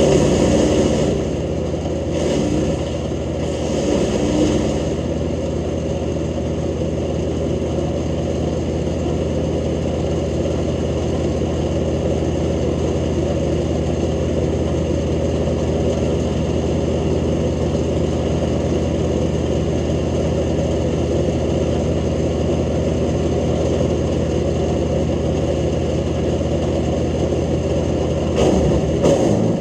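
Jansen GTS-1500 wood chipper running steadily at speed, with a few brief louder bursts of chipping noise in the first five seconds as material goes through the blades. The steady running breaks up near the end.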